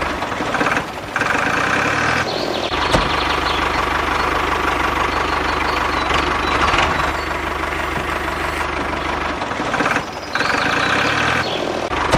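Mini tractor running with a steady engine-like mechanical sound, dipping briefly about a second in and again near the end.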